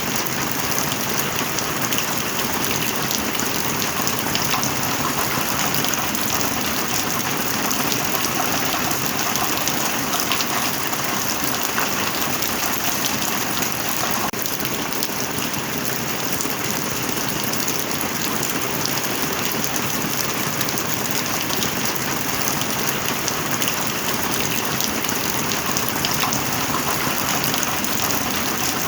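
Heavy rain falling steadily: a dense, even hiss speckled with countless small drop impacts.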